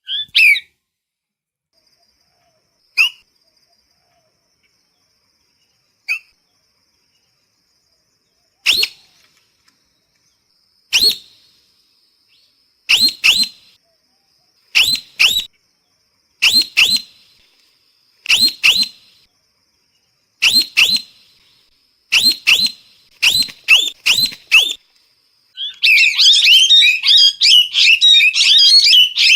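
Parrot giving short, sharp calls: a few single calls at first, then pairs and triplets about every two seconds, breaking into a dense run of rapid calls near the end.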